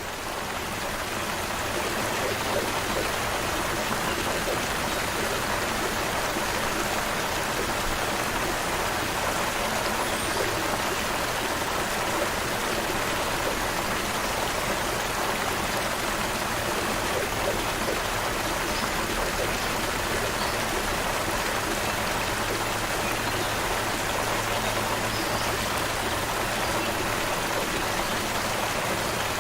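Creek water flowing steadily, fading in over the first couple of seconds and then holding an even level.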